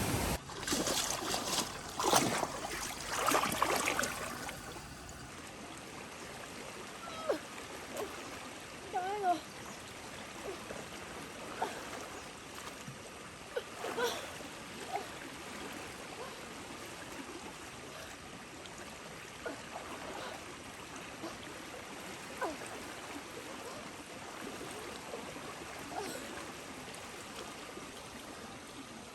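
Water splashing for the first few seconds, then a steady rush of flowing water with a few short, faint high-pitched calls scattered through it.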